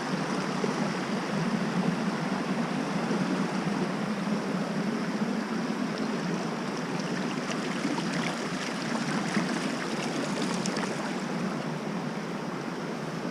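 Steady rushing of a stream over a cascade.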